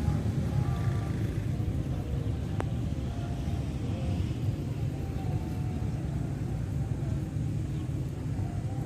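Steady low outdoor rumble, with one sharp click about two and a half seconds in.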